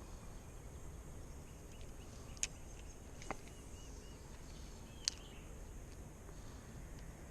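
Quiet outdoor creek ambience with a low, steady background rumble and faint chirping. Three sharp clicks or taps come about two and a half, three and five seconds in.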